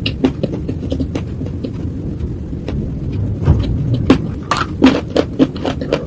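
Slate being bitten and chewed close to the microphone: a quick, irregular run of sharp, crisp crunches and snaps over a low rumble, getting louder and denser in the last couple of seconds.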